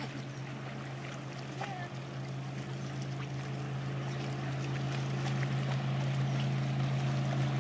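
Engine of a large passing motorboat, a steady low drone that grows gradually louder as the boat approaches.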